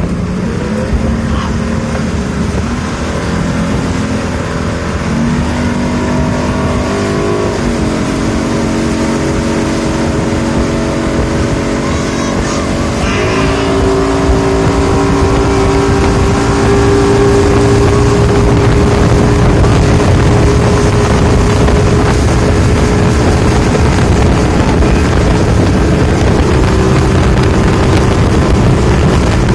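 Motorboat engine running, its pitch stepping up twice as the throttle is opened, then holding steady at speed.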